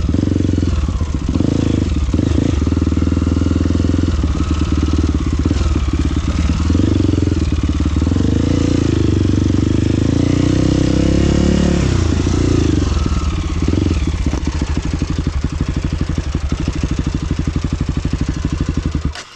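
Off-road motorcycle engine running under way, its pitch rising and falling with the throttle. The sound stops abruptly near the end.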